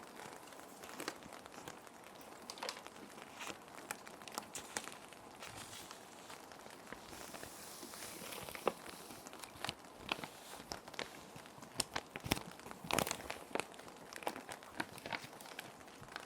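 Plastic sheet protectors and paper crinkling and rustling as they are handled, with irregular crisp crackles and clicks. Underneath runs a steady hiss of background rain.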